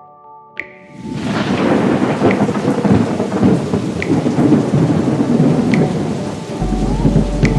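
Thunderstorm: a long, loud roll of thunder over heavy rain comes in about a second in and keeps going, with a short high ping every second or two.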